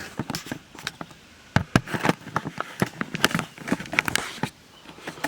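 Scattered sharp clicks and taps, a few louder knocks among them, as a peel-and-stick LED backlight strip is pried up out of an LG LCD TV.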